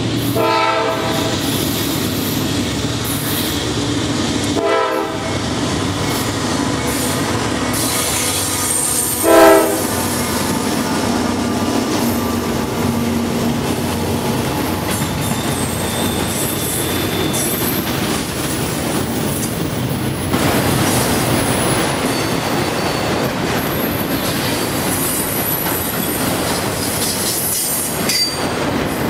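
Freight train locomotive horn sounding three times as the train approaches, the last blast about nine seconds in the loudest, over the steady rumble of the train. Autorack freight cars then roll past close by, wheels rumbling and clicking over the rails with thin high squeals now and then.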